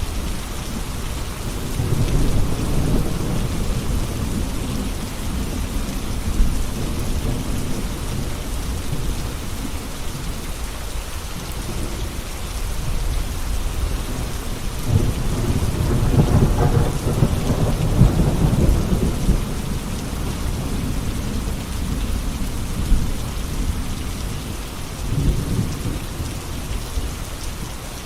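Steady rain falling, with rolling thunder: a rumble about two seconds in, a longer, louder roll from about fifteen to twenty seconds, and a shorter one near the end.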